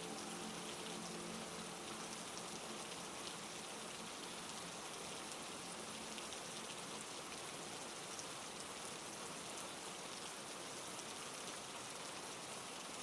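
Steady heavy rain falling on a surface, an even hiss of many drops.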